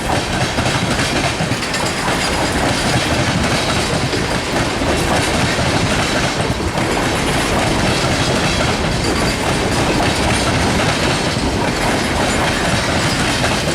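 Freight train tank cars rolling over a railroad diamond crossing, their wheels clattering steadily across the crossing's rail gaps.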